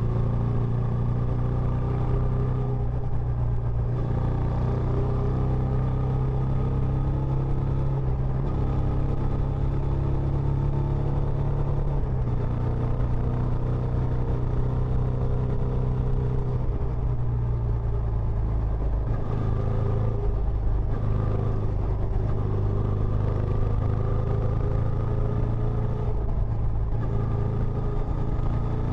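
Benelli Imperiale 400's single-cylinder engine running through its stock exhaust: a steady low note with small shifts in pitch.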